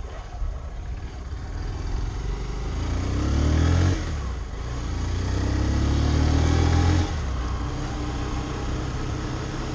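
Honda CBF125's single-cylinder engine accelerating, its pitch rising steadily and then dropping abruptly twice as the rider shifts up through the gears.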